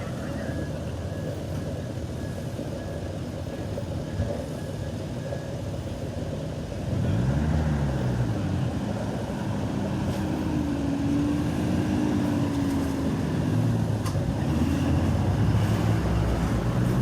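Street traffic rumble, then about seven seconds in a motor vehicle's engine grows louder nearby, its pitch rising and falling as it runs.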